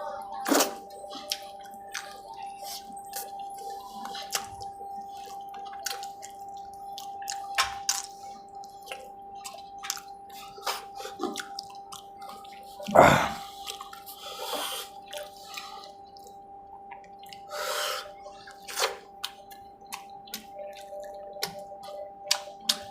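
Wet eating sounds of someone eating rice with hilsa fish curry: irregular mouth smacks and small clicks, with a louder squelching burst about halfway through, over a faint steady hum.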